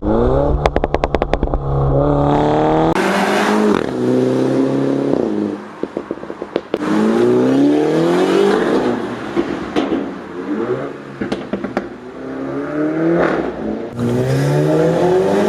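Mini Cooper S's 2-litre turbocharged four-cylinder through a Remus cat-back exhaust, accelerating hard through several gears. Each rising pull is cut short by an upshift. Rapid crackles and pops come from the exhaust about half a second in and again around six seconds in.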